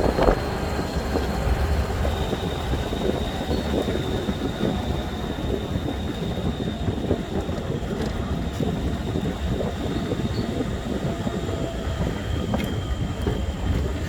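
4x4 truck running along a rough dirt road: a steady low rumble and rattle from the engine and body, with a thin, steady high tone above it.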